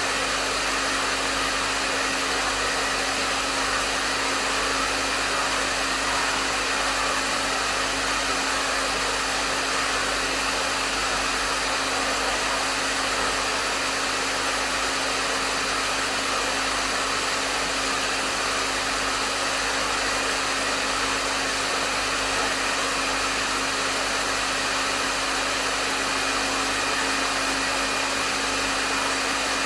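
Hair dryer running steadily on a medium setting: a constant rush of blown air with a steady motor hum underneath.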